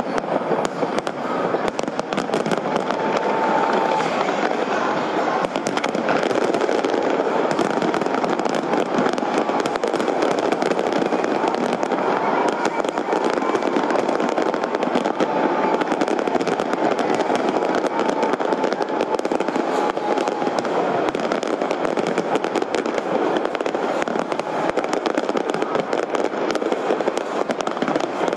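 Large fireworks display: a dense, continuous barrage of crackling and bangs from many shells bursting at once.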